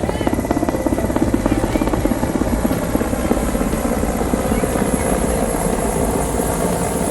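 Helicopter coming in to land close by: the rapid, steady chop of its rotor blades.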